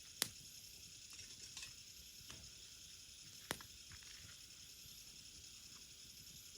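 Burning firewood crackling: a sharp pop near the start and another about three and a half seconds in, with a few softer crackles between, over a steady high hiss.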